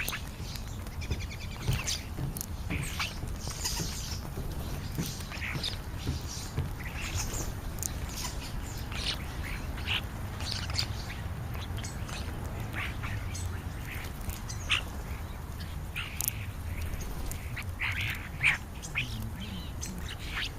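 European starlings chattering at a feeding spot: many short squeaky, clicking and squawking calls, scattered and overlapping, over a low steady rumble.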